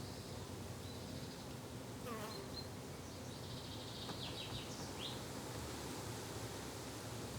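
Insects buzzing in a garden, a steady low drone of bees or flies, with a few short high bird chirps about two to five seconds in.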